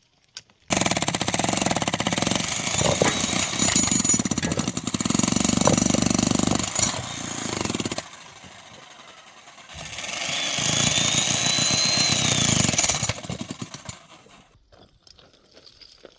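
A small engine running in two loud stretches, about seven seconds and then about three, with a lull between. A high rising-and-falling whistle-like tone sounds over the second stretch.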